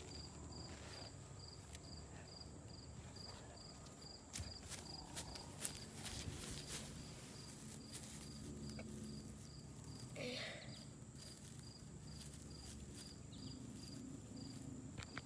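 Faint background with a steady, evenly repeating high chirp throughout, and a few light taps and ticks in the middle.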